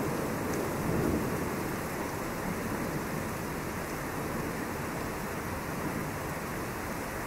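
Thunder rumbling low and dying away, with a small swell about a second in, over steady rain.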